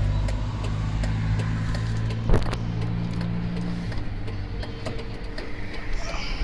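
Isuzu 4HK1 four-cylinder turbo-diesel truck engine running steadily. There is a single knock a little over two seconds in. The engine's tone drops away about four seconds in.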